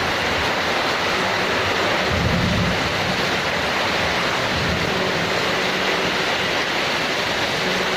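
Heavy tropical thunderstorm rain pouring down steadily, with a brief low rumble about two seconds in.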